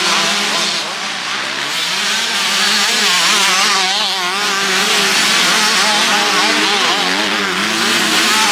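Several motocross bikes revving at once, their engine notes rising and falling quickly with the throttle.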